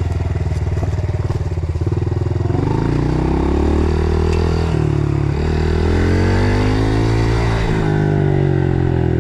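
Dirt bike engine running under the rider, low and even for about two and a half seconds, then revving up, its pitch climbing and dipping several times as the bike accelerates and eases off.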